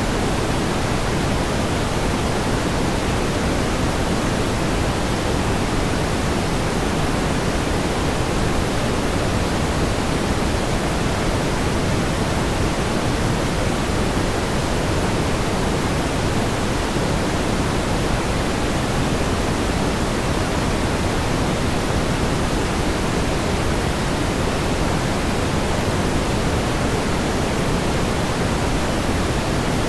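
Steady synthetic pink noise: an even, unchanging hiss, fuller in the low end than in the highs.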